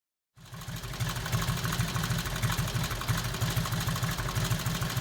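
Vintage flathead motorcycle engine fed by a Linkert carburetor, idling with a steady pulsing beat. It cuts in suddenly a moment in.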